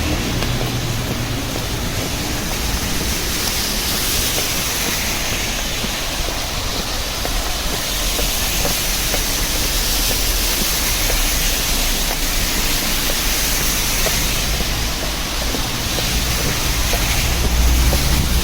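Steady rain falling, an even hiss, with the low rumble of street traffic underneath that swells near the end.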